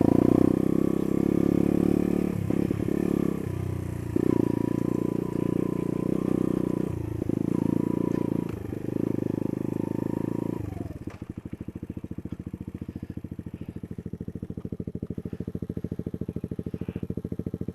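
Small off-road motorcycle engine pulling under throttle, repeatedly backing off and opening up again. About eleven seconds in it drops to a steady, evenly pulsing idle.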